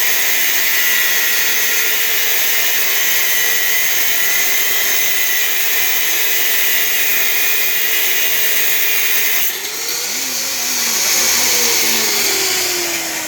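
A power tool running steadily with a high whine and hiss. Its sound changes about nine and a half seconds in.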